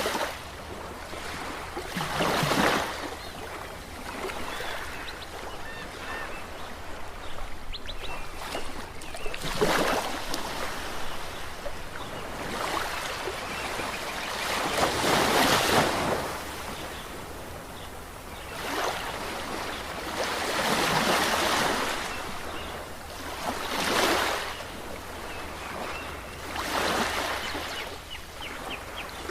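Ocean waves washing in, swelling and fading in surges every three to six seconds.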